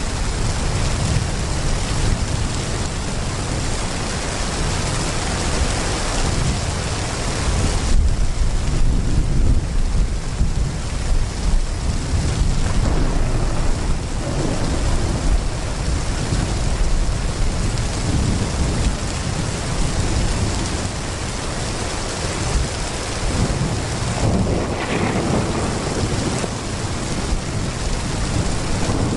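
Heavy rain pouring steadily, with low thunder rumbling in about eight seconds in and rolling on for several seconds.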